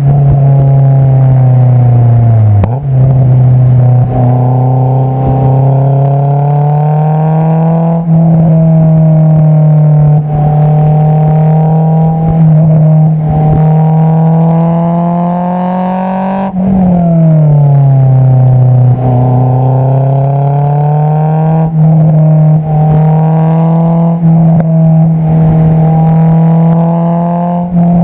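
Honda S2000's four-cylinder engine heard close at the tailpipe through an Invidia Q300 exhaust while driving. The note dips sharply about two seconds in, climbs slowly as the revs build, falls back about two-thirds of the way through, then rises again and holds steady.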